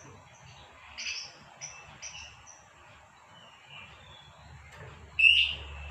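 Female lovebird chirping: a quick run of short, high chirps about a second in, then one louder, sharper call near the end.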